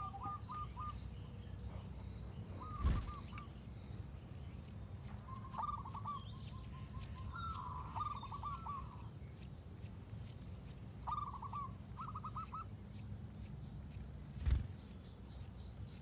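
Birds calling at a nest: short chirping trills come and go over a fast, steady series of thin, high ticks that begins a few seconds in. Two dull knocks, about three seconds in and near the end.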